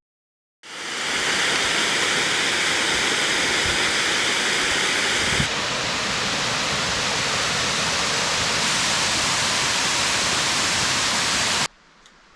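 Steady, loud rush of a waterfall. It changes sharply about five seconds in, as a second shot of falling water takes over, and stops abruptly near the end.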